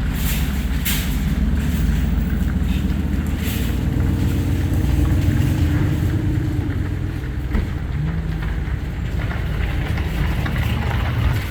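A motor vehicle running with a steady low rumble, with a few sharp clicks in the first few seconds and a low hum coming in about halfway through.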